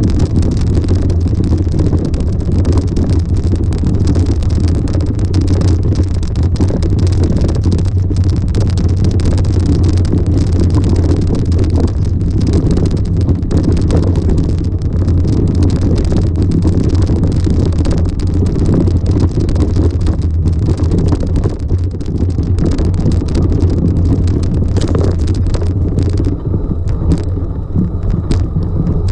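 A vehicle engine running with a steady low drone while the vehicle moves along a dirt track.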